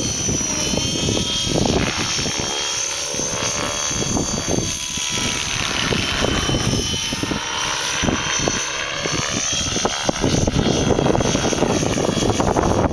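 Align T-REX 600 radio-controlled helicopter in flight, its rotor and drive whine rising and falling in pitch as it manoeuvres, with gusty wind noise on the microphone underneath.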